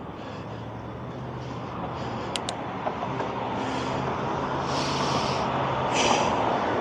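Road traffic heard from a moving bicycle: a steady low engine hum and road noise that slowly grows louder, with two short hisses near the end.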